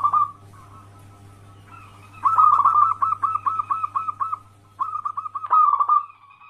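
Zebra dove (perkutut) singing its rapid staccato cooing song. There is a short phrase at the start, a run of about nine quick notes about two seconds in, and another run about five seconds in. A faint steady low hum lies underneath.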